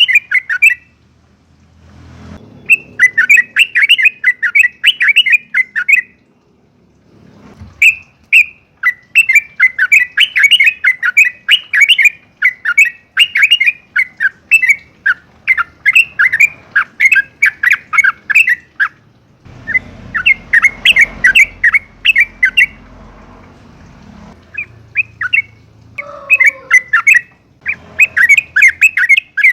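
Yellow-vented bulbul singing loudly in rapid strings of short chattering notes, each burst lasting several seconds, with brief pauses between bursts.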